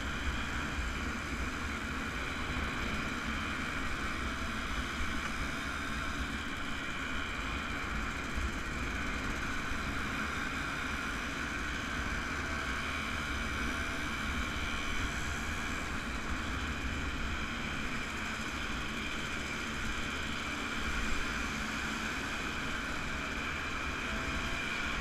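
Small vintage two-stroke motorcycle engines running steadily at cruising speed, heard from a riding bike, with road and wind noise over the microphone.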